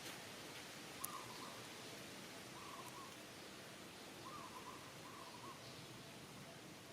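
A bird calling faintly and repeatedly over a steady hiss: a short phrase of a few notes, about every one and a half seconds. A single sharp click about a second in.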